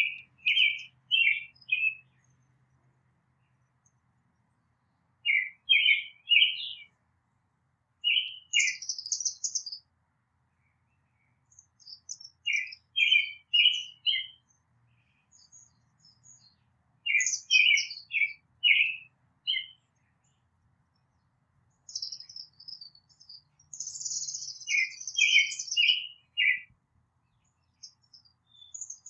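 Songbirds singing in the background. One bird repeats a short phrase of three or four clear whistled notes every few seconds, and higher, quicker twittering from other birds comes in between, loudest about two-thirds of the way through.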